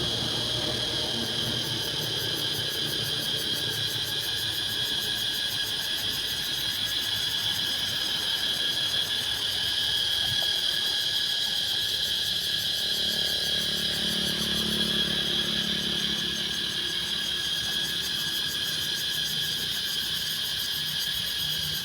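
Cicadas calling in a continuous, steady high-pitched drone.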